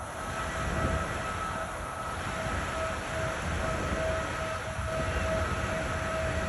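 Car ferry's engines and machinery rumbling steadily, with a constant high whine over the rumble.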